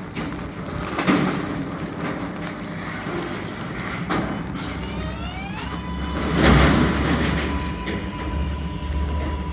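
New York City subway train on the L line: a few knocks, then a rising electric motor whine about five seconds in that levels off into a steady tone, with a louder rush and a low rumble from the wheels as the train gets moving.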